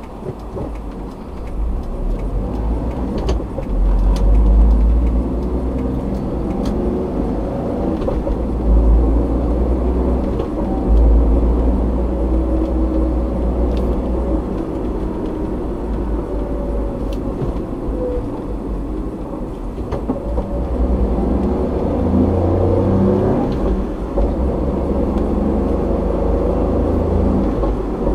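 Car driving on a road as heard from a dashcam inside the cabin: a steady low rumble of road and tyre noise, with the engine's pitch drifting up and down as the speed changes.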